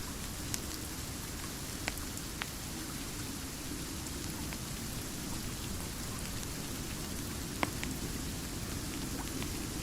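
Steady rain ambience with a low rumble underneath, and a few sharp pops scattered through, like fireplace crackles, the loudest a little past the middle.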